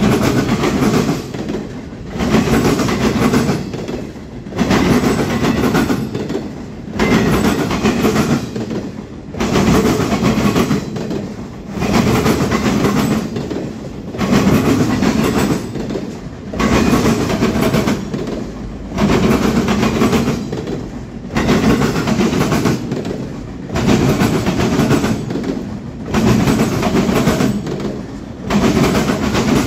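Freight train rolling past, its cars' wheels clattering over the rail joints; the sound swells and dips evenly about every two and a half seconds as each car goes by.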